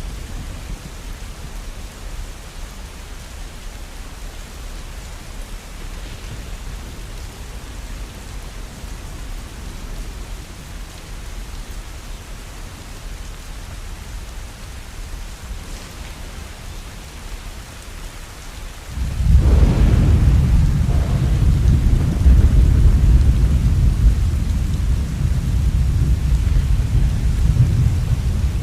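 Steady rain, then about two-thirds of the way through a sudden loud thunderclap that rolls on as a long, low rumble.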